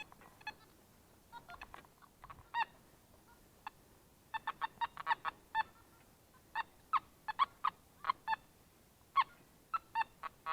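Metal detector beeping: short, sharp tones, a few scattered at first and then in quick clusters from about four seconds in, as the coil is swept back and forth over a buried metal target.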